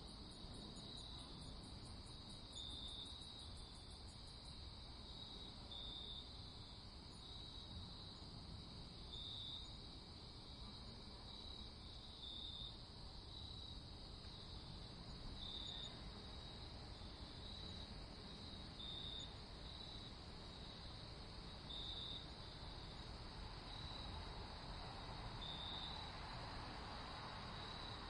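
Crickets chirping in a night ambience, short high chirps repeating about once a second over a steady low rumble. A faster, fainter, higher insect trill stops a few seconds in.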